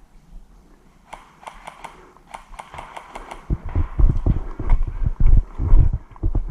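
An airsoft player's footsteps: light, crisp steps at first, then from about halfway loud, irregular low thuds as the player breaks into a run.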